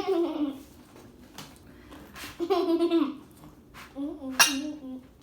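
A girl's voice making three drawn-out wordless sounds, with one sharp clink of tableware about four and a half seconds in.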